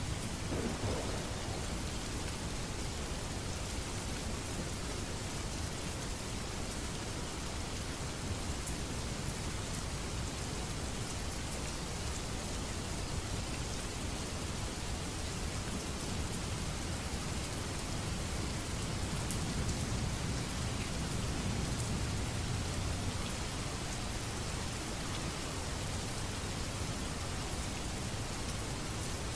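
Steady rain falling, an even wash of drops, with a low rumble swelling briefly about twenty seconds in, like distant thunder.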